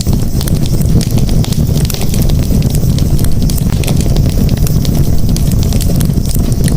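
Wood campfire burning, with dense small crackles and pops over a steady low rumble of flames.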